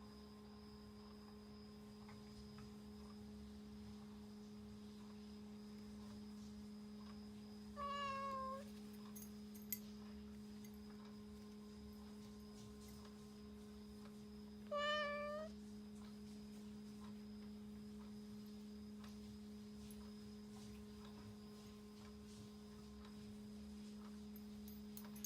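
Domestic cat meowing twice, two short calls several seconds apart, over a steady low hum.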